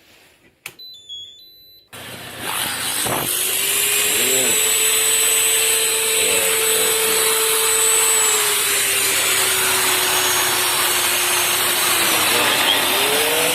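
A short click and a few high electronic beeps, then a vacuum cleaner motor starts and runs at full speed through the inverter, a steady loud rush of air with a whine. Near the end the whine sags in pitch and then picks up again, as a further load is switched on.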